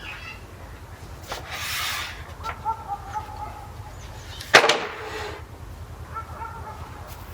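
Brush swishing across European larch planks as oil is applied, with a single sharp knock about four and a half seconds in. Faint animal calls sound in the background.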